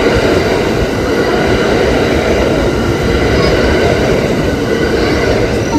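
Hanshin Railway electric train passing close over a level crossing, a loud, steady rumble of wheels on rail. Faint steady high tones run above it, as from the crossing's warning bell.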